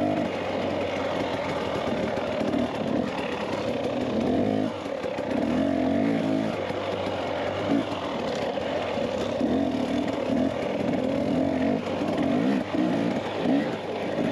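Dirt bike engine running as the bike is ridden, its pitch climbing and dropping again and again as the throttle is opened and closed.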